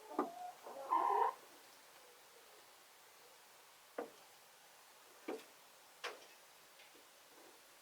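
Domestic chickens calling softly, with a louder pitched call about a second in, followed by three short sharp sounds a second or so apart.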